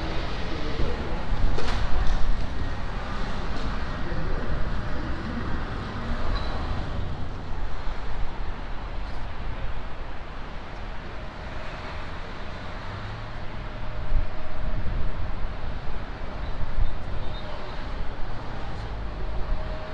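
Steady low rumble and hiss of transit background noise, with indistinct voices now and then.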